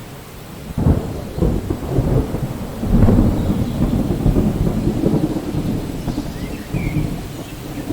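Thunder rumbling in a rainstorm: it breaks in sharply about a second in, swells to its loudest around three seconds and keeps rolling, over steady rain.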